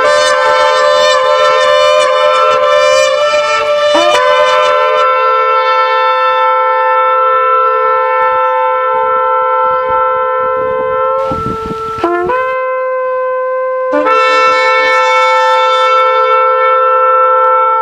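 Shofar (ram's horn) blown in long, loud, sustained blasts on one steady note with small breaks in pitch. About eleven seconds in the note breaks off into a brief rush of air, then the blast resumes.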